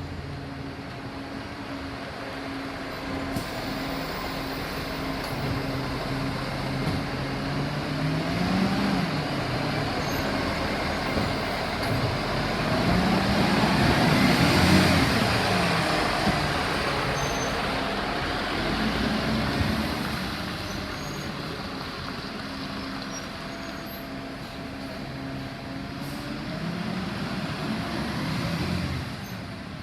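Garbage truck's diesel engine running and revving up and down several times, loudest and highest in pitch around the middle.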